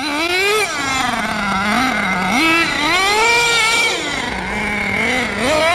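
HPI Savage X 4.6 monster truck's small two-stroke nitro glow engine revving up and down under throttle several times, its pitch rising and falling and dropping back toward a steady idle between blips.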